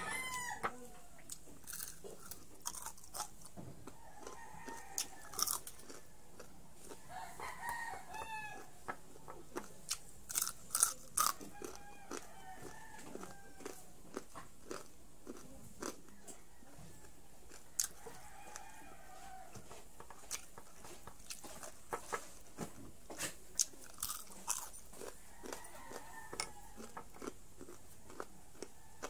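Close-up crunching and chewing of crispy deep-fried pork strips, with sharp crunches scattered irregularly throughout. A rooster crows faintly in the background several times.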